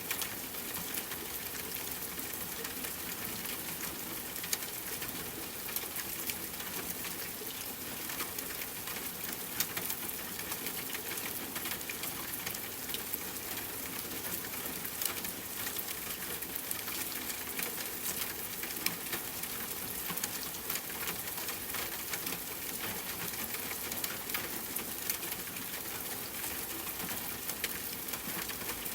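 Steady rain pattering on a tent, with a campfire's sharp crackles and pops scattered through it.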